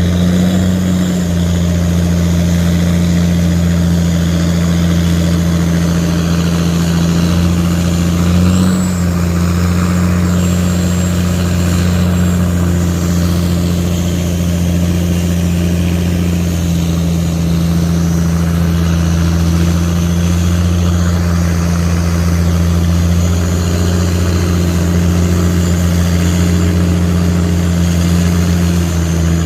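Tugboat's diesel engine running steadily with a deep, even drone, swelling briefly about eight and a half seconds in.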